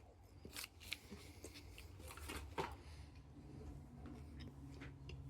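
Faint scattered clicks and rustles over a low steady hum.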